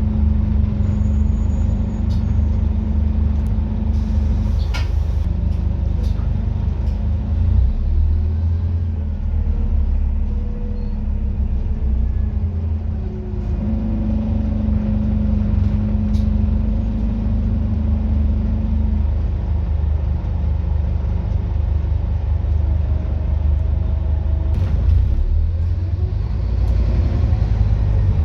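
Scania N230UD double-decker bus's five-cylinder diesel engine running with a steady low rumble, its pitch stepping and gliding up and down with engine speed.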